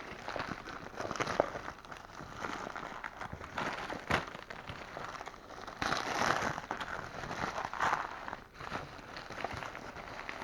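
A parcel's plastic packaging being handled and torn open by hand: irregular crinkling and rustling with sharp clicks, in uneven surges.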